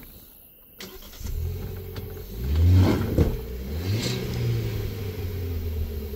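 Car engine revving as the vehicle accelerates. It comes in about a second in, peaks in a hard rev about three seconds in, revs once more, then runs steadily.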